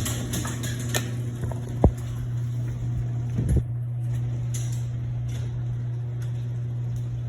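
Electric garage door opener running steadily as the door travels, its hinges freshly lubricated, with a few clicks and one sharp knock about two seconds in.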